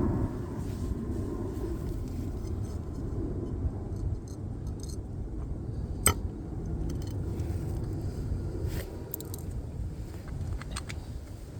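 Small metallic clinks and scrapes, with one sharp click about six seconds in, over a steady low rumble.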